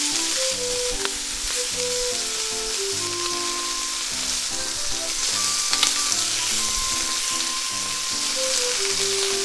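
Chicken and scallion skewers sizzling steadily in hot oil in frying pans, with a couple of light clicks as the skewers are turned with chopsticks.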